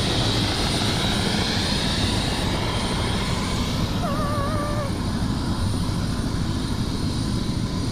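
Helicopter running in flight, a steady loud rotor and engine noise. A brief warbling tone sounds about four seconds in.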